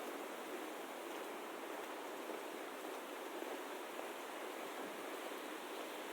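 Steady, even rushing noise of outdoor ambience, with no single sound standing out.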